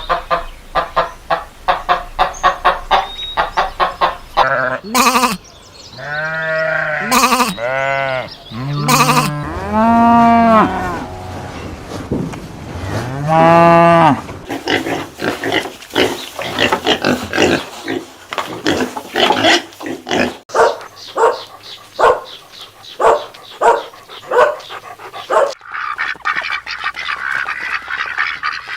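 Farm animals calling: quick runs of short repeated calls, then several long calls that rise and fall in pitch, then more quick short calls.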